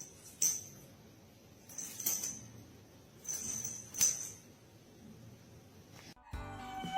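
Small bell jingling in four short bursts, bright and metallic.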